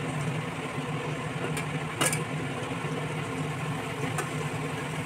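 Steady hiss and low hum of pork frying in a kadai on a gas burner, with a faint click about two seconds in.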